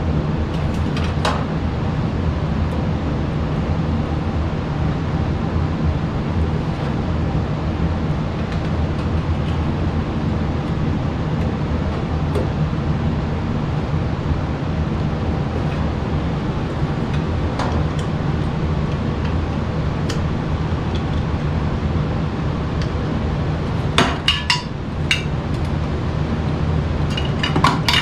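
Steady low mechanical hum, with a few sharp metallic clinks of tools or parts about 24 seconds in and again near the end.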